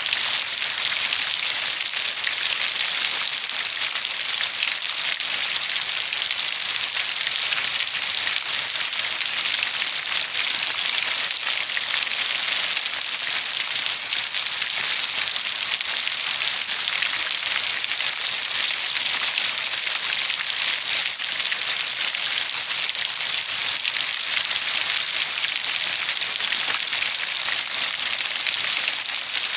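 Steady heavy rain falling: a dense, even patter of drops that does not let up.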